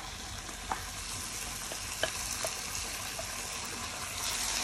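Diced onions and fresh tomatoes sizzling in hot ghee in a frying pan, a steady hiss that grows a little louder near the end. A few sharp taps of a wooden spatula scraping the tomatoes out of a glass bowl into the pan.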